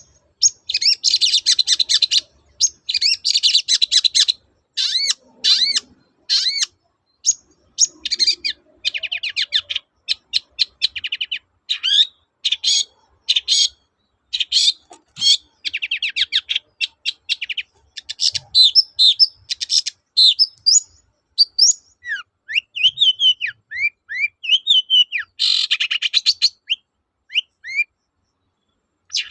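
Long-tailed shrike (cendet) singing in fast, dense chattering phrases broken by short gaps, with a run of short rising whistled notes about three-quarters of the way through.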